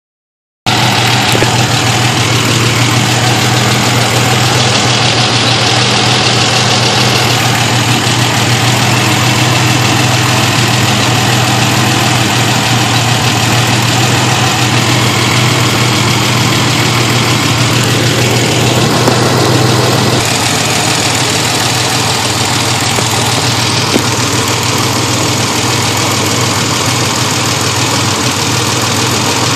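1991 Ford Explorer's 4.0-litre V6 idling steadily, with a ticking that the owner takes for lifter tick. The low drone eases slightly about twenty seconds in.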